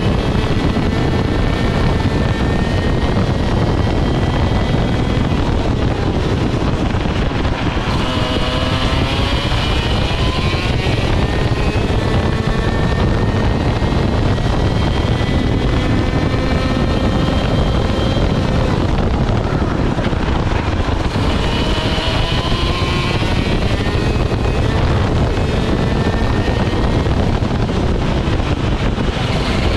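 Single-cylinder two-stroke ROK GP kart engine running at racing load on board, its note climbing and dropping again and again as it accelerates and backs off, over a steady rush of wind and track noise.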